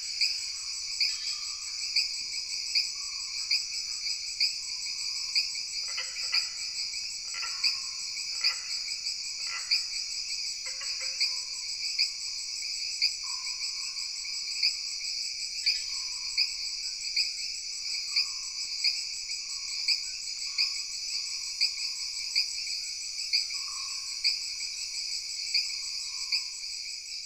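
Tropical jungle ambience: a steady, high-pitched insect chorus pulsing a little more than once a second, over a chorus of frog calls. A run of louder, deeper frog calls comes about a third of the way in.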